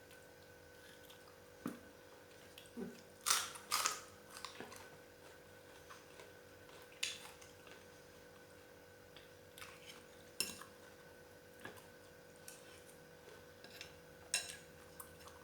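Faint eating sounds: a dozen or so short, scattered clicks and taps of tableware being handled, the loudest few a little over three seconds in, with chewing between them over a steady low hum.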